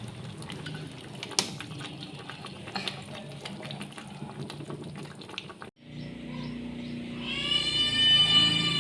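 Pot of tempoyak fish curry simmering and bubbling, a steady hiss with scattered small pops and clicks. It breaks off sharply near the end, and a high, held pitched sound begins.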